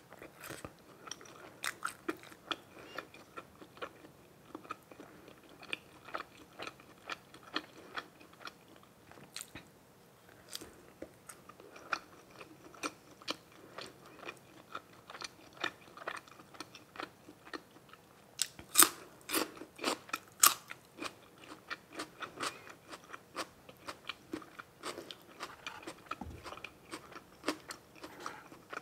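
A person chewing and biting food close to the microphone: grilled pork balls and red sausage. The chewing comes as a steady run of small wet smacks and crunches, with a few louder crunchy bites about two-thirds of the way through.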